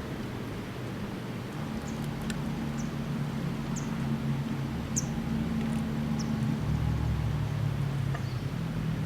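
A low, steady hum with a few short, high chirps scattered through it; the hum drops lower about two-thirds of the way in.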